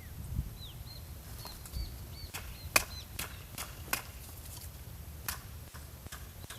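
Irregular sharp snaps and clicks, about a dozen spread over several seconds, the loudest a little under three seconds in. Short high chirps, falling in pitch, come in the first half.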